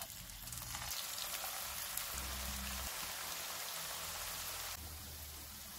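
Potato balls deep-frying in hot oil: a steady, rain-like sizzling hiss of bubbling oil that fills in about a second in and gets a little quieter near the end.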